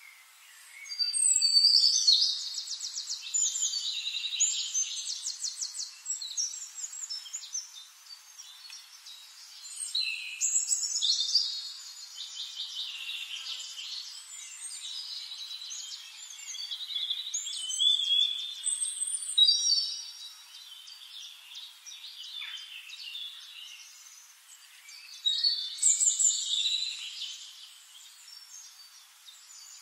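Birdsong: songbird phrases of rapid trills and chirps, coming in bursts every several seconds with quieter chirping in between.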